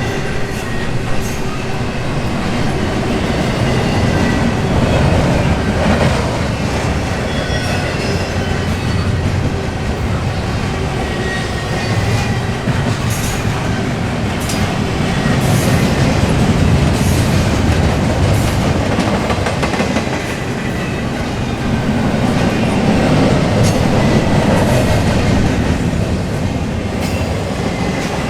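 Intermodal container train rolling past: a steady rumble of steel wheels on the rails, with scattered clicks and faint high wheel squeal.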